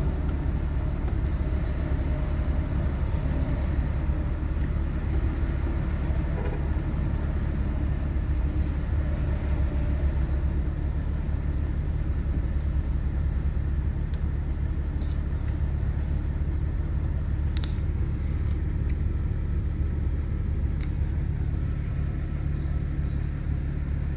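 BMW 335's turbocharged inline-six idling steadily, a low even rumble with no revving. A short click sounds about eighteen seconds in.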